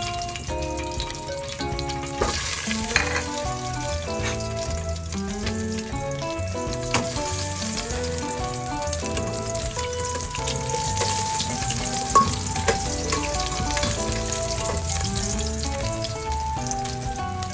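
Ginger slices sizzling as they fry in hot oil in a stainless-steel pot. The sizzle starts about two seconds in and carries a few sharp pops. Background music with a melody plays throughout.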